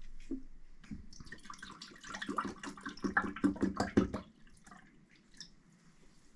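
Water being poured while measuring out cups for boiling, splashing and trickling for about three seconds before stopping.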